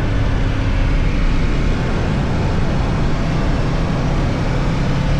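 A motorcycle engine running steadily under a loud, even rushing noise, as when riding.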